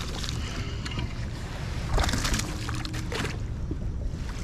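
Water sloshing and lapping around a kayak hull, with scattered small clicks and a louder splash about two seconds in.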